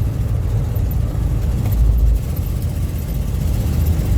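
Steady low rumble of a car on the move, road and engine noise, with a brief stronger low surge about two seconds in.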